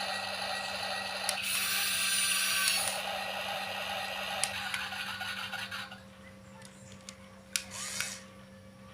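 Small electric motors and plastic gears of a toy remote-control excavator whirring, louder for a moment near the start, stopping about six seconds in; two sharp clicks follow near the end.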